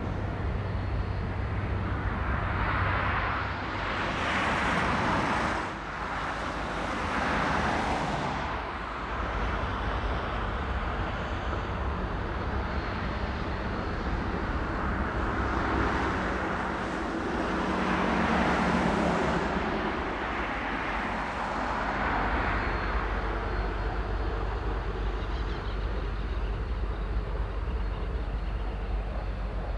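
Jet airliner engines heard across the airfield: a noisy rush that swells and fades twice, over a constant low rumble.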